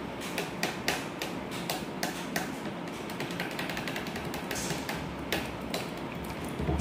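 A person eating pasta close to the microphone, chewing with a run of irregular mouth clicks and smacks over a steady low background noise.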